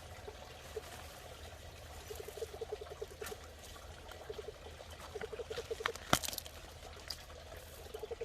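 A frog calling from the pond in several short bursts of rapid pulses, over the steady trickle and bubbling of the pond water. A single sharp click about six seconds in.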